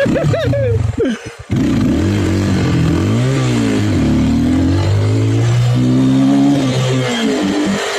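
Yuki İzci enduro motorcycle's engine running under the rider, starting about a second and a half in and revving up and down with the throttle, its pitch rising and falling and stepping.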